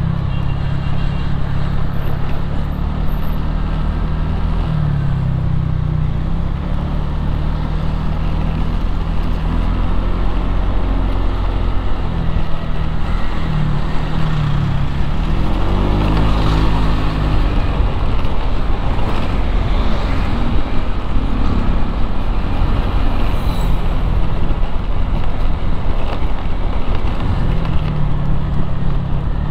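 Road traffic noise: a steady low engine hum over road rumble. The engine pitch dips and rises several times, most clearly about halfway through.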